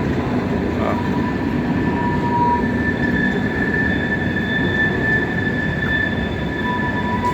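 Steel wheels of a departing train of empty cars squealing on the rails, which railroaders call the rails singing. Several steady high-pitched tones ring over a low rolling rumble, the higher squeal growing stronger about three seconds in.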